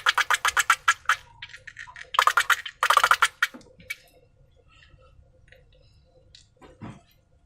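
Slime being squeezed and worked by hand: a quick run of crackling clicks that stops about a second in, two louder crunchy squelches around two and three seconds in, then scattered faint clicks and a soft thump near the end.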